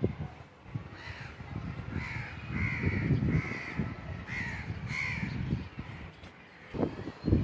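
A crow cawing: a run of about five short calls in quick succession, over a low rumble, with two thumps near the end.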